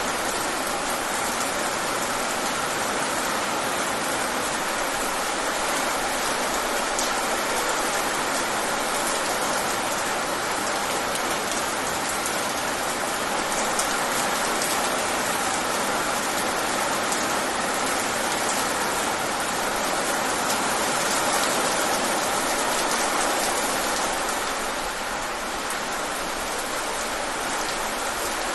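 Steady rain, a dense even hiss with scattered individual drop ticks.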